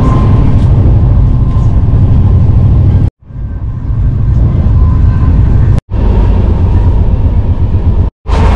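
Tejas Express train running at speed, heard from inside the carriage: a loud, steady low rumble. It cuts out abruptly three times, and after the second cut it fades back in.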